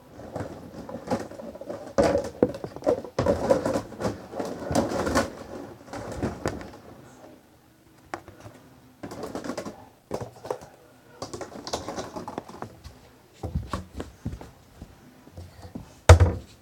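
Household handling noises: an irregular run of knocks, clatter and rustling, busiest in the first few seconds, with a loud thump near the end.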